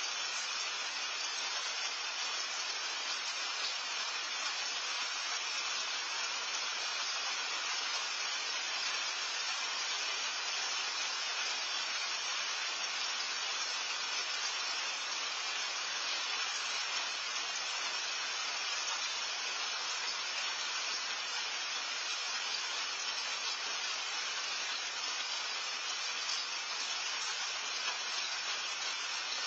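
Steady rain falling: an even hiss that holds at one level throughout.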